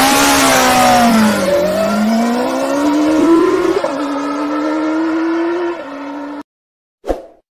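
Car engine revving sound effect: the pitch dips, then climbs and holds steady before cutting off suddenly, followed by a short blip.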